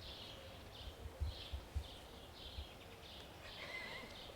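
Faint outdoor birdsong: short high chirps repeating about twice a second, with a brief whistled note near the end. Low wind rumble on the microphone.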